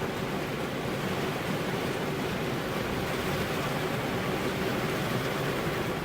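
Steady rain falling on a car's window glass, an even continuous hiss with no single drops or thunder standing out.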